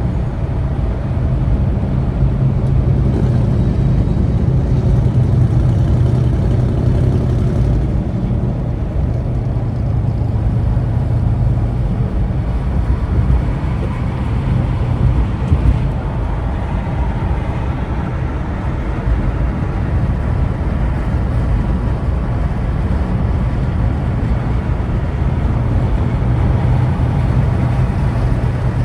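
Vehicle engine running steadily in slow stop-and-go traffic, a low hum with road noise; the engine note shifts about eight seconds in.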